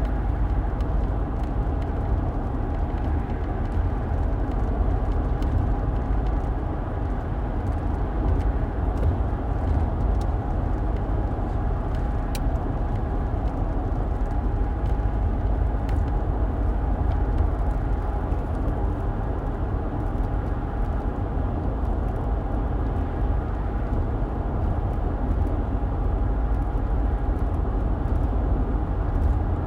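A car driving: a steady low rumble of road and engine noise, with a faint steady hum above it and a few light ticks around the middle.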